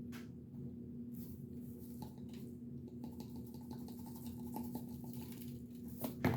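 Hands working on a raw turkey and its seasoning: soft scattered rubbing and scratching with a few light knocks, and a sharper knock near the end, over a steady low hum.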